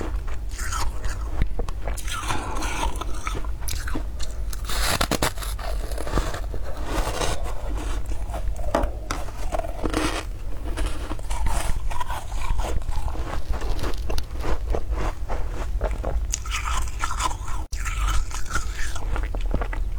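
Close-miked biting and chewing of fluffy frost scraped from a deep freezer: a continuous run of dense, irregular crunches.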